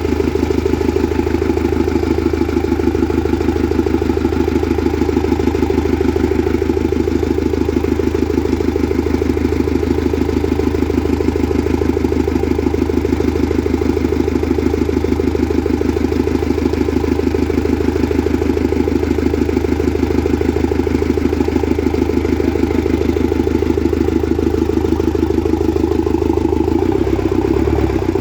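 Mitsubishi engine of a Cat 3-ton forklift idling steadily with an even rhythm; its low hum turns uneven near the end.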